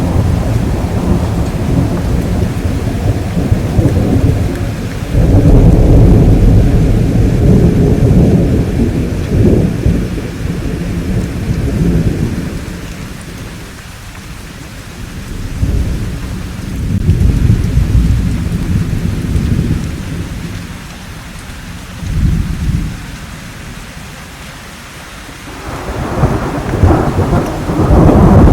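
Thunderstorm: deep rolling thunder swells and fades again and again over steady rainfall. The rumbles ease off twice before a loud one builds near the end.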